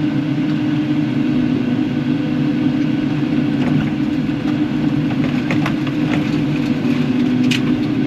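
Kubota KX080-4 excavator's diesel engine running at a steady pitch, with a few faint clicks and knocks in the second half.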